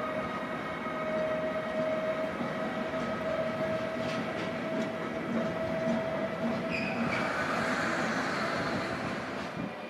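Freight train hauled by two SBB Cargo International electric locomotives rolling past with intermodal wagons: a steady rumble of wheels on rail under a steady whine. A hissing rush comes in about seven seconds in.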